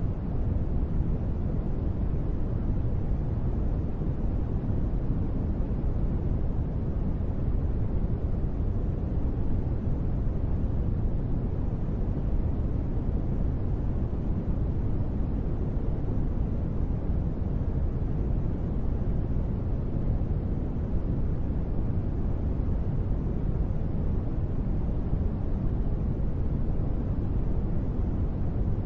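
Steady, unbroken noise of a sleep-sound track sold as gentle rain, deep and muffled with most of its weight in the low end and no separate drops or changes.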